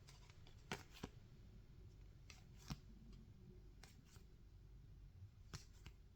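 Near silence broken by about eight faint, sharp clicks and taps from trading cards and packaging being handled.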